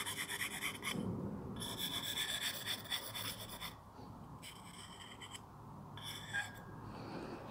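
Steel carving chisel rubbed back and forth on an oilstone in light strokes, a scraping rasp in several runs with short pauses between them. This is the honing that removes the burr left by the grinding wheel.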